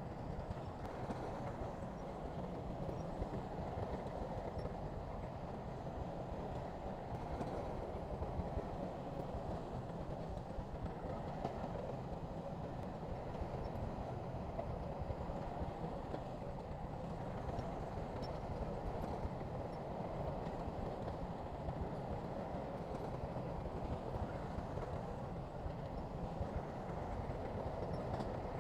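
Heavy earthmoving machinery running steadily: a continuous, even machine rumble with no breaks.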